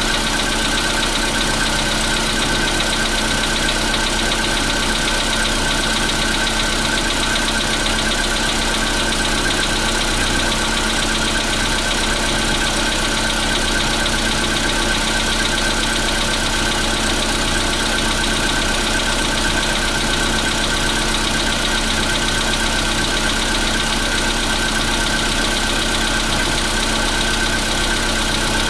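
Volkswagen Polo Sedan's 1.6 CFNA four-cylinder petrol engine idling steadily shortly after a cold start, with the engine knock that this engine makes on cold starts.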